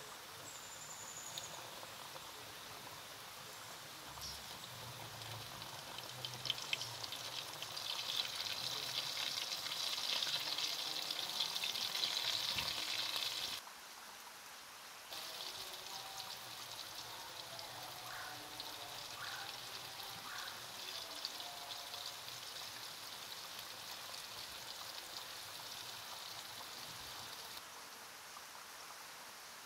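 Flour-coated chicken wings frying in hot oil in a pan: a steady sizzling hiss with a few pops, growing louder through the first half. It breaks off abruptly about halfway, then returns a little quieter and eases off near the end.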